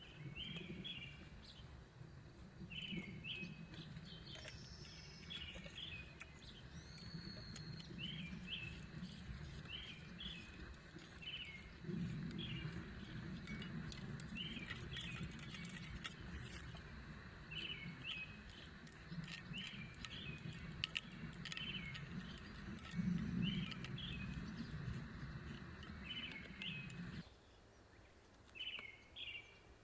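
Small birds chirping in short repeated calls, about one every second, over a low steady rumble that cuts off abruptly near the end.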